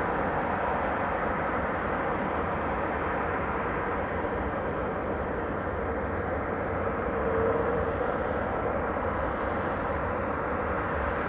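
Steady rushing noise of jet airliner engines at an airport, swelling briefly about seven seconds in.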